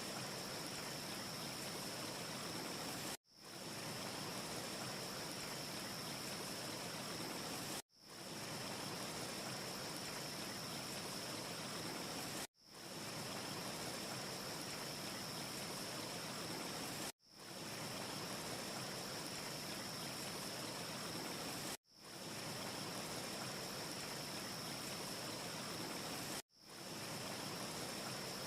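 Steady, even rushing hiss of a looped wind ambience track, with a thin high whine on top. It cuts out abruptly and fades back in about every four and a half seconds, six times, as the short loop restarts. No fireplace crackle is heard.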